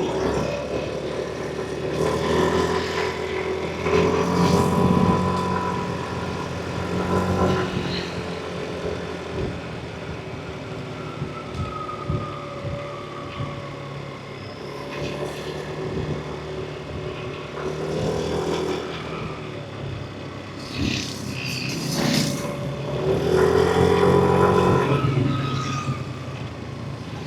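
Yamaha NMAX V3 scooter's single-cylinder engine and CVT drive on the move, its pitch rising and falling with the throttle, with several louder swells. Road noise runs underneath.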